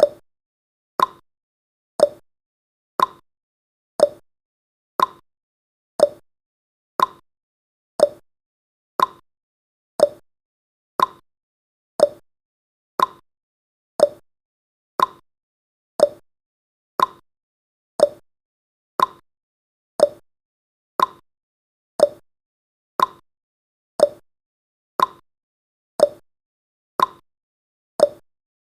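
Clock-style ticking sound effect of a countdown timer, one tick each second, alternating higher and lower in pitch like a tick-tock, with silence between.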